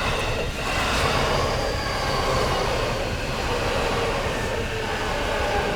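JR Nambu Line E233 series electric train running past: steady wheel and running noise, with a motor whine that slowly falls in pitch.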